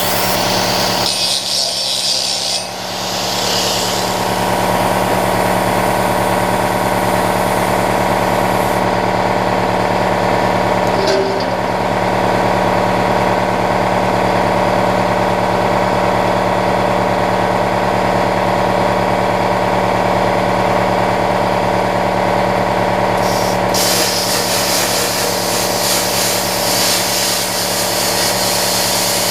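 Plasma cutter piercing and cutting through steel plate: a steady buzzing hum with a hiss of air, the hiss stronger in the first few seconds and again near the end.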